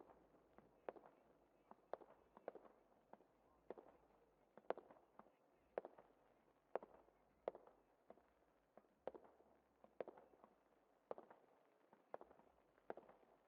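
Fireworks going off at a distance: a steady string of sharp bangs, about two a second, each with a short echoing tail.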